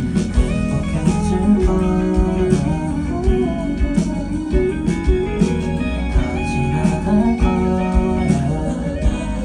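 Live band music: an instrumental passage between sung lines, with a steady beat.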